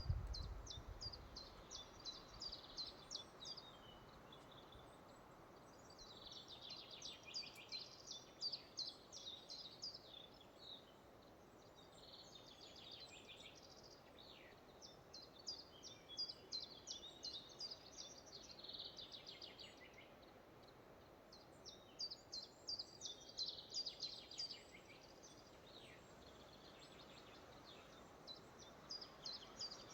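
Songbirds singing in a forest: faint, repeated bursts of quick, high chirping notes every few seconds over a soft, steady background hiss.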